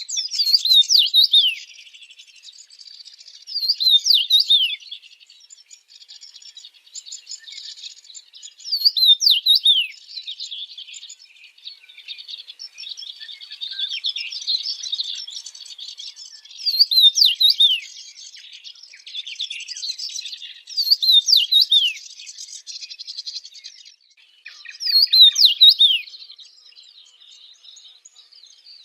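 Small birds singing: a loud song phrase of quick falling chirps, repeated about every four seconds, with soft high twittering in between.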